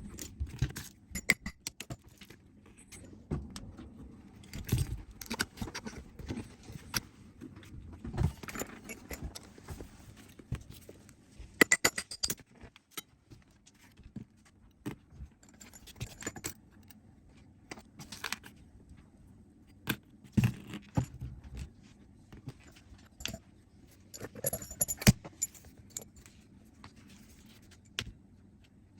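Small metal parts and hand tools clinking and rattling in irregular, scattered clicks and jingles, with no engine running.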